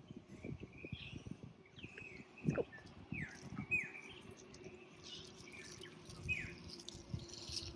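Small birds chirping outdoors, with several short falling notes, over a steady low hum and frequent soft low knocks and rustles. The loudest sound is a single thump about two and a half seconds in.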